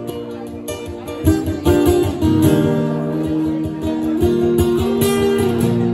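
Acoustic guitar strummed in a steady rhythm with held notes: an instrumental passage of live Irish folk music.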